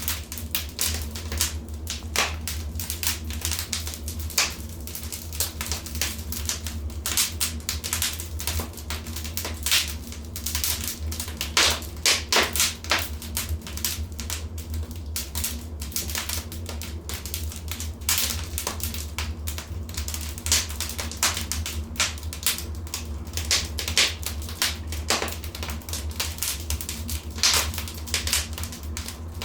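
Wood fire crackling and popping in a fireplace: dense, irregular snaps over a steady low rumble of the flames, with a cluster of louder pops about twelve seconds in.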